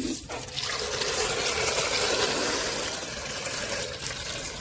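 Water running from a kitchen tap, steady and splashing, as it rinses out a stick vacuum's dust container.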